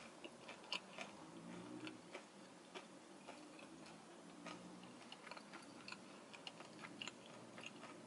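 A person chewing a cheese-filled jalapeño popper with her mouth closed. The sound is faint, a string of small irregular mouth clicks and smacks.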